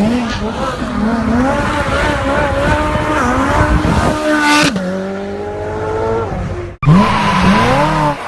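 Car engines revving hard under a powerslide, with tyre squeal: the revs climb and hold, fall away after about five seconds, then after an abrupt cut another car revs up sharply.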